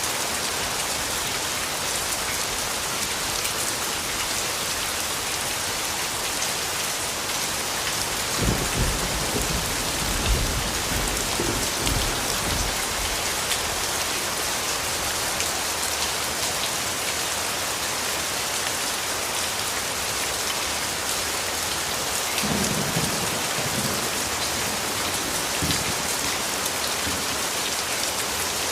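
Steady rain falling, a dense even hiss of drops. Low rumbles of distant thunder roll for several seconds about a third of the way in, and again more briefly later.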